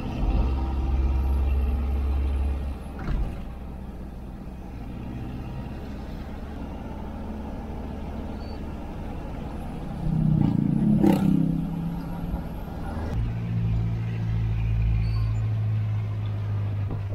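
A 4x4's engine running as the vehicle drives along, its note shifting with load and louder for a few seconds in the middle. Two sharp knocks stand out, about three seconds in and again about eleven seconds in.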